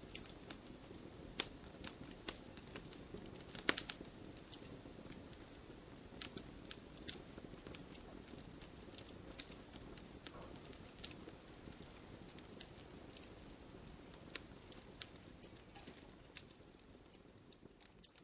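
Campfire burning: wood crackling with frequent irregular sharp pops over a steady low hiss of flame, fading down near the end.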